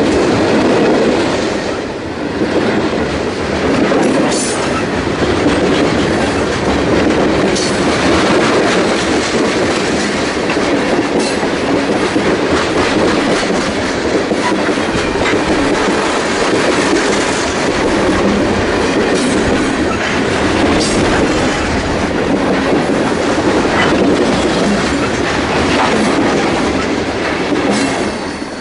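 Freight train cars rolling past loudly: a steady rumble of steel wheels on the rails, with sharp clicks as the wheels cross rail joints. The sound begins to fall away near the end.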